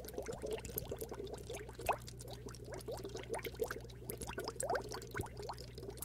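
Bubbling water with an underwater sound: a dense stream of short rising blips, several a second, over a faint steady hum.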